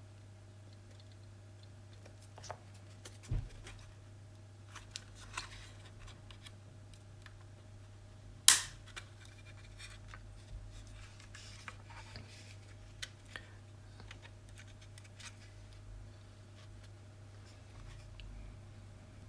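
Plastic case of a cheap digital multimeter being pried apart and handled: scattered light clicks and scrapes, with one sharp click about eight seconds in.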